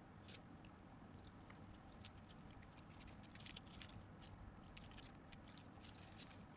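Faint, irregular quick ticks and scratches of small mammals moving about close to the microphone, growing busier after the first couple of seconds, over a steady low background hum.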